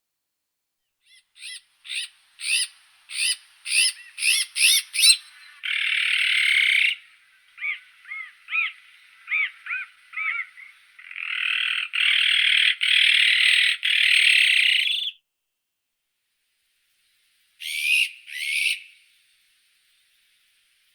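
Azure-winged magpie calling: a quick run of short, sharp notes growing louder, then long harsh rasping calls twice, with short notes between them, and two short notes near the end.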